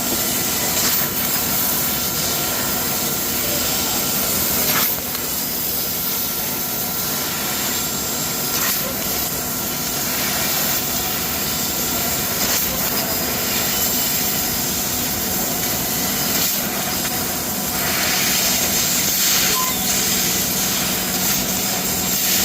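CNC laser cutting machine running: a steady hiss with a constant hum, rising briefly into louder hissing surges a few times.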